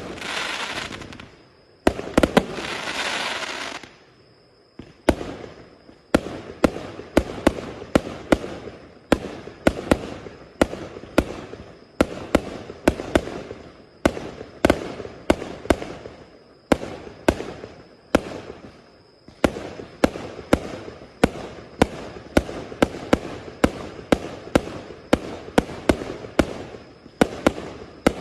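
A 1000-shot, 0.8-inch firework cake firing: in the first few seconds two stretches of dense hissing crackle, then a steady run of sharp shots, about two or three a second, each trailing a short crackle.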